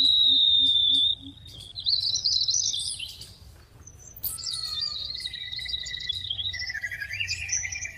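A small bird whistling and chirping in thin high notes. A held note lasts about a second, then comes a short rising warble, and after a brief pause a longer wavering twitter, with a lower note joining near the end.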